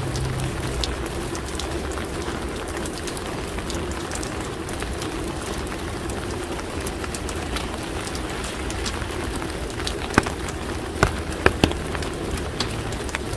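Steady rain falling and pattering on surfaces, with scattered drop ticks and a few sharper, louder drips between about ten and twelve seconds in, over a low steady hum.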